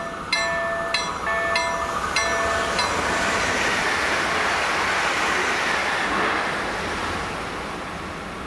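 A level-crossing warning bell strikes about every 0.6 s. About three seconds in it is drowned by the rushing noise of an EN76 electric multiple unit passing over the crossing, which then fades away.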